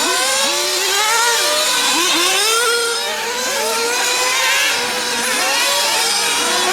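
Several 1/8-scale nitro-engined RC cars lapping a track, their small high-revving glow engines overlapping and repeatedly rising and falling in pitch as they accelerate and lift off.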